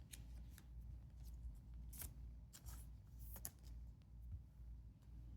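Faint soft swishes and light clicks of trading cards being slid and handled, about eight brief strokes spread unevenly through, over a steady low hum.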